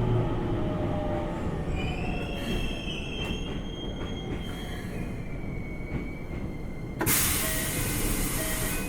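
Keikyu 1500-series electric train with a Toyo GTO inverter braking to a stop, heard inside the front car. A slightly falling inverter tone sounds at first, then high brake and wheel squeal. About seven seconds in comes a loud burst of air hiss lasting nearly two seconds as the train comes to rest.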